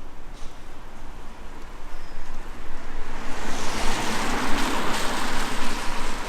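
A vehicle passing on a wet street: a rush of tyre hiss swells up about three seconds in and starts to fade near the end, over a steady city background.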